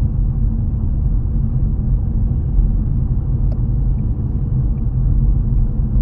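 Car driving on a wet road: a steady low rumble of tyres and engine, with a few faint clicks in the second half.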